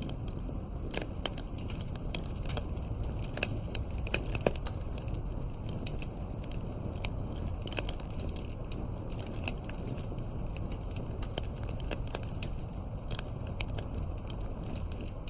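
Campfire burning: a steady low rumble of flames with irregular crackles and sharp pops of wood, a few louder snaps among them.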